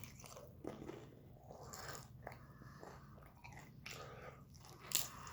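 A person chewing a bite of fried crab rangoon, the crisp wonton wrapper crunching faintly in small irregular crackles, with one sharper crunch about five seconds in.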